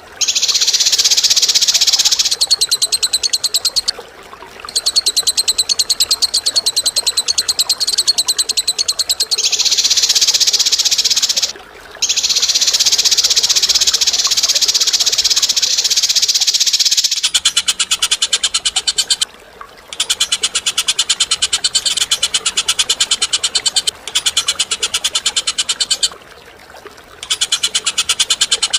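Cage birds giving harsh, very rapid rattling chatter in long bursts of several seconds with brief breaks. About two-thirds of the way through the sound changes to a more distinctly pulsed, ticking rattle.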